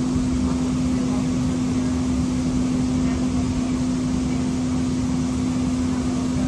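Steady running noise of a Siemens S200 light rail vehicle: a constant low hum with one unchanging tone over a dense rumble, even in level throughout.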